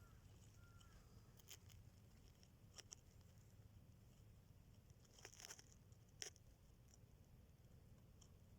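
Near silence: a faint low steady rumble with a few small scattered clicks and rustles, the loudest a little past five seconds in and just after six seconds.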